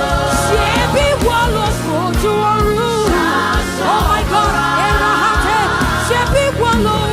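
Live gospel worship music: a singer's voice with sliding, ornamented lines over a band with bass and a steady beat.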